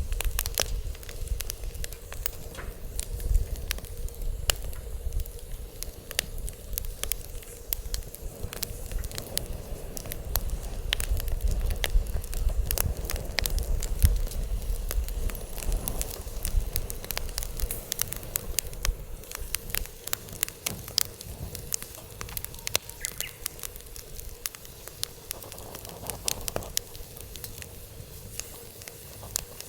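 Wood fire burning and crackling, with many sharp pops and snaps, over a low rumble of wind on the microphone that is strongest around the middle and eases in the last third.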